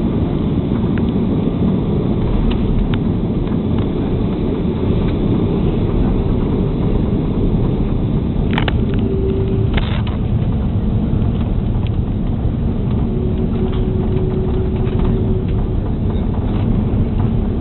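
Steady loud roar and rumble of an Airbus A330 airliner landing, heard inside the passenger cabin, with a couple of brief clicks about nine and ten seconds in.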